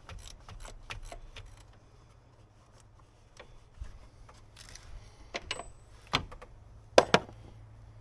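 Irregular metallic clicks and clinks of a hand tool being fitted to and worked on the hexagon cap of a cartridge oil filter housing to loosen it, with two sharp knocks about seven seconds in.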